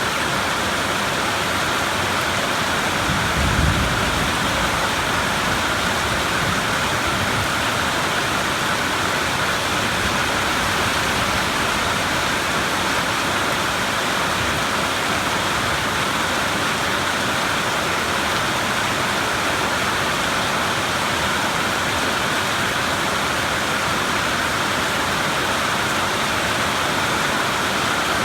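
Steady, heavy rain falling, an even hiss with no let-up, and a brief low rumble about three seconds in.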